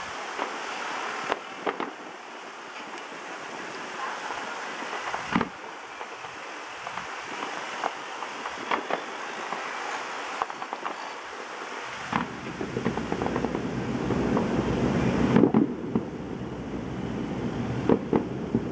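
Distant aerial fireworks going off: scattered sharp bangs and pops over a steady rushing background noise. A louder low rumble joins about twelve seconds in and dies away a few seconds later, with a cluster of bangs near the end.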